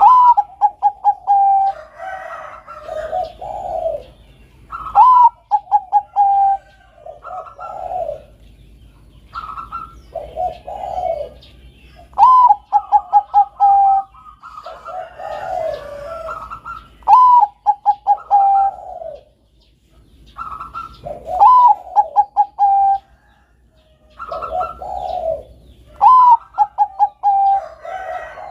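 Bangkok-bred zebra dove (perkutut) singing its cooing song. Phrases repeat about every four to five seconds; each starts on a higher note and runs into a quick series of short staccato coos. Lower coos overlap between the phrases.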